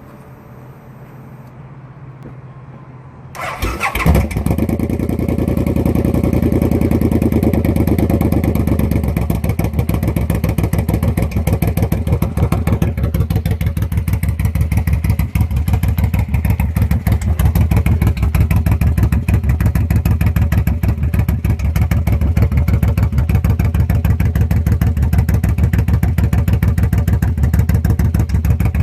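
Suzuki M109R's big V-twin, breathing through an aftermarket Velocity Pro exhaust, cranks and fires about three and a half seconds in after a low hum. It runs at a slightly raised idle at first, then settles by about nine seconds into a steady, pulsing idle.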